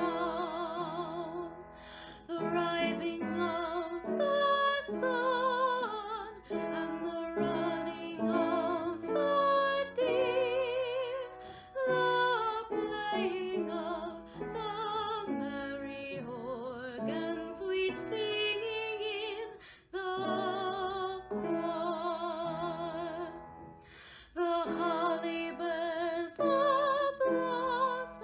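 Women singing a Christmas carol with strong vibrato, in long sung phrases broken by short pauses for breath.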